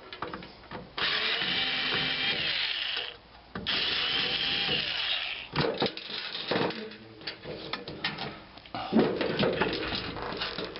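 Power drill backing screws out of a ballast's sheet-metal casing: two runs of about two seconds each, each ending as the motor winds down, followed by clicks and clatter of loose screws and metal parts being handled.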